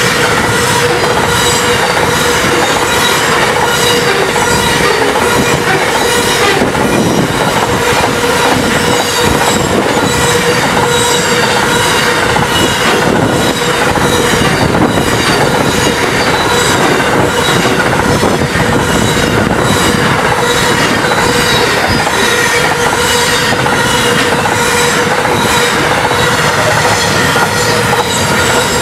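Double-stacked container wagons of a fast freight train rolling past: a loud steady rush of wheels on rail with a regular clickety-clack and a steady high ringing squeal from the wheels and rails.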